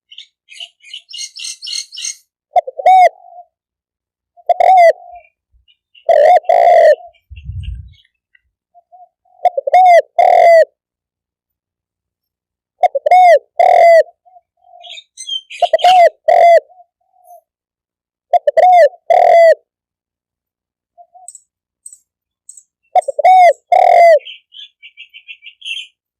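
Spotted dove cooing: repeated phrases of two or three arched coo notes, a few seconds apart. Small birds chirp faintly near the start and near the end.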